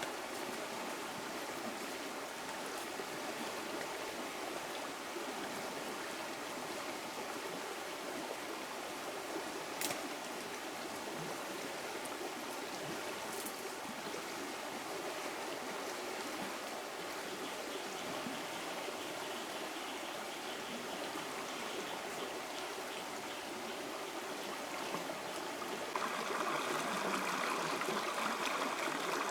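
Stream water running steadily, with a few faint clicks; about 26 seconds in it grows louder and brighter.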